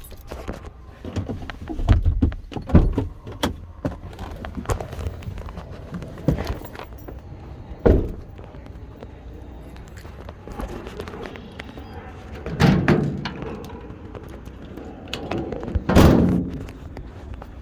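A car door and its surrounds being handled: a run of separate knocks and thuds, with the loudest thud near the end.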